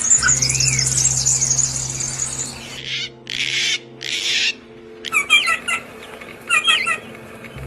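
Birds calling: a fast, high chattering trill, then two short harsh rasping calls about three and four seconds in, followed by groups of short repeated chirps.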